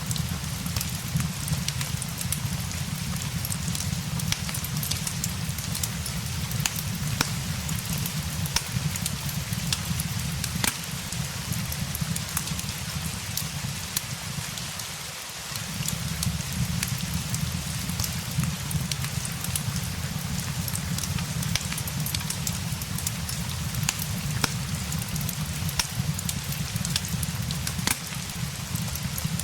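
Steady rain mixed with the crackle of a fireplace: an even hiss dotted with many small, sharp pops and ticks, over a low rumble that drops away briefly about halfway through.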